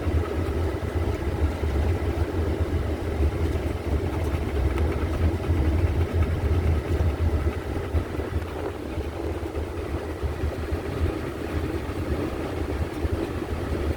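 Steady engine and road rumble inside the cabin of a moving van.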